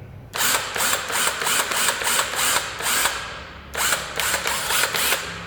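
Cordless impact wrench run in two bursts, its hammer mechanism rattling rapidly: one trigger pull of about three seconds, a short pause, then a second of about a second and a half.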